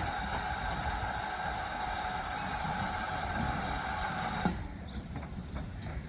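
Steam locomotive whistle sounding one long blast that cuts off sharply about four and a half seconds in, over a low rumble.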